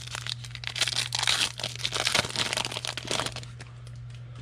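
Foil wrapper of a pack of trading cards crinkling and tearing as it is opened and the cards are pulled out: a dense run of crackles lasting about three and a half seconds.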